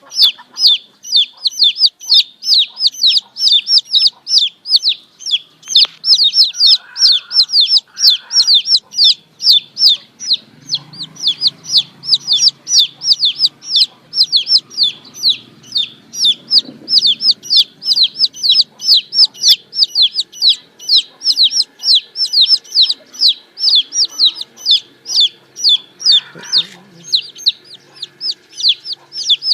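Baby chicks peeping without pause: short, high-pitched peeps, each falling in pitch, about three a second.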